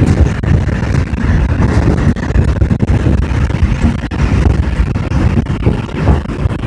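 Seoul Subway Line 4 train running at speed, heard from inside the car: a loud, steady rumble of wheels on rails with a rushing hiss above it.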